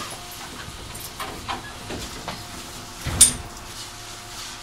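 Shin-Keisei 8900 series electric commuter train standing at a station platform: a faint steady hum with scattered small clicks, and one short loud burst of noise about three seconds in.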